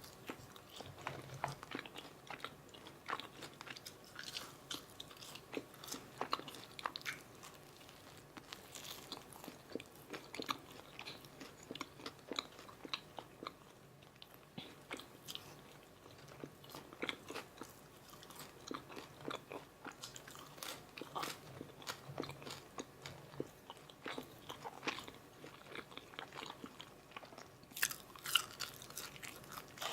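A person chewing and biting McDonald's Filet-O-Fish meal food close to the microphone: a steady run of crisp crunches and mouth sounds, with a few louder bites near the end.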